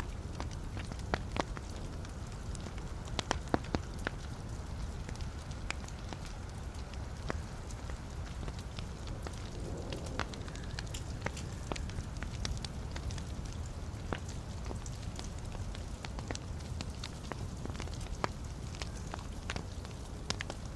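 Wood fire in a fireplace burning with a steady low rumble and irregular sharp crackles and pops from the burning logs.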